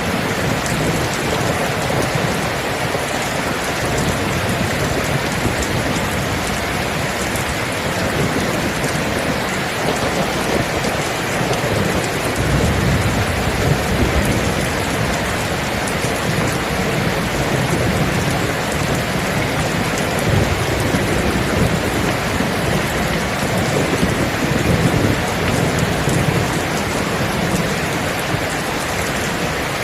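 Steady heavy rain with low thunder rumbling through it, swelling about halfway through and again near the end.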